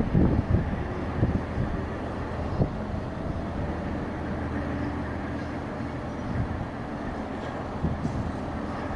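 Amtrak train at the station, giving a steady low hum of several held tones. Gusts of wind buffet the microphone in the first second.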